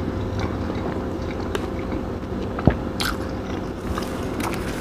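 Close-up mouth sounds of a person chewing a mouthful of food, with small wet clicks, a dull thump about two and a half seconds in and a sharp click soon after.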